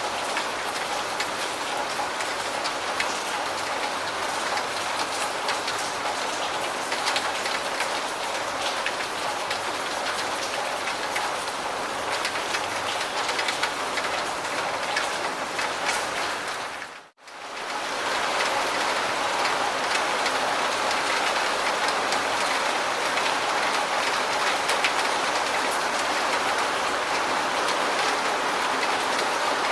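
Steady rain: a dense, even patter of drops. About 17 seconds in it drops out briefly to near silence, then comes back a little louder.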